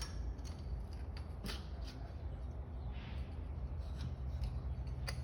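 A few light clicks and taps of parts being handled, over a steady low hum.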